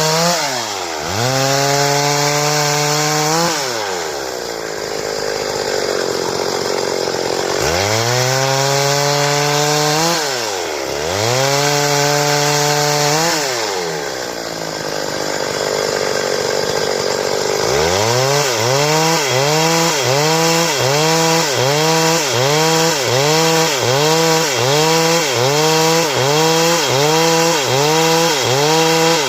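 Stihl two-stroke chainsaw running at high revs in two long spells, its pitch dipping and dropping back between them. In the last third it is revved up and down rapidly, about one and a half times a second.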